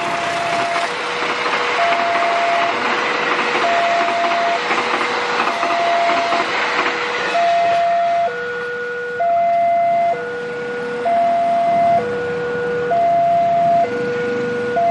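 Railway level-crossing warning alarm sounding a two-tone ding-dong, alternating high and low notes about once a second. A passing train's wheels run noisily over the rails for the first half, fading out about seven seconds in, while the alarm keeps on.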